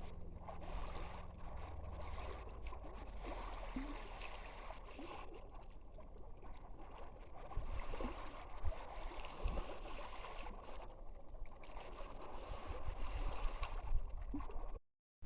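Calm sea: small waves lapping and gurgling at the water's edge, with a low wind rumble on the microphone.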